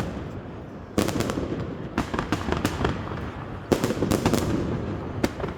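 Fireworks going off: clusters of sharp bangs and rapid crackles coming in bursts about a second or so apart, with a rumbling wash of noise between them.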